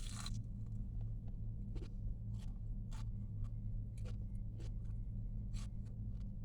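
Chewing crispy fried chicken wings: a crunch right at the start, then scattered soft clicks and crunches from the mouth, over a steady low electrical hum.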